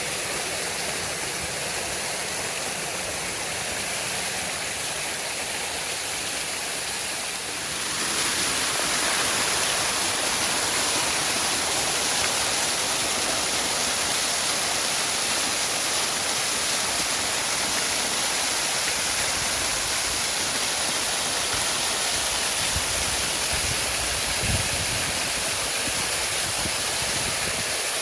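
Waterfall: a steady rush of falling water that grows louder and brighter about eight seconds in, with a brief low thump near the end.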